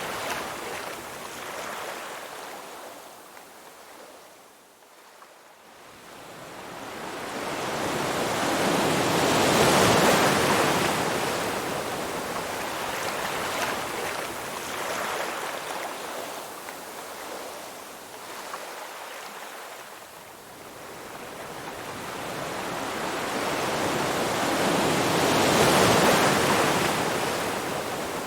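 Ocean surf: waves breaking and washing in, the rush swelling and fading in slow surges, two large swells peaking about ten seconds in and near the end.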